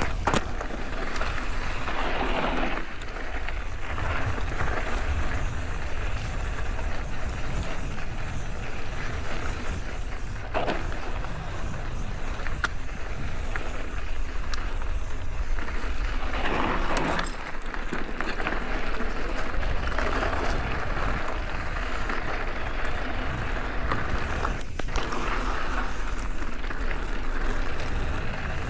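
Mountain bike riding over a rough dirt and gravel trail: steady tyre noise and low rumble, with the bike rattling and a few sharp knocks.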